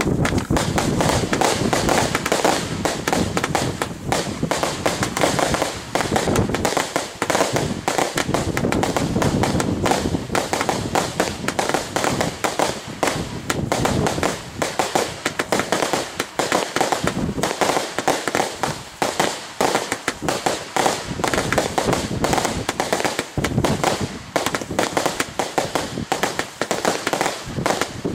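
Consumer fireworks finale: a dense, unbroken crackle of rapid pops and bangs, with heavier low booms in the first few seconds.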